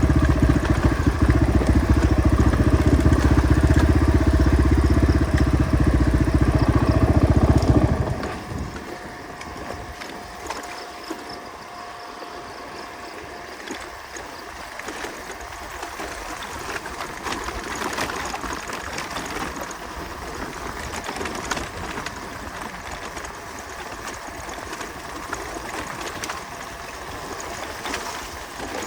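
Motorcycle engine running with a rapid, even pulse. It cuts off abruptly about eight seconds in, leaving a much quieter background with faint scattered clicks.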